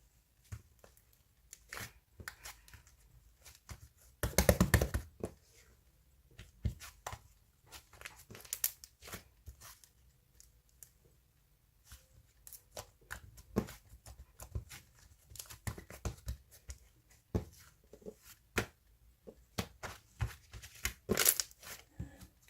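Scattered clicks and taps of objects being handled, with two louder bursts of rustling and tearing about four seconds in and near the end.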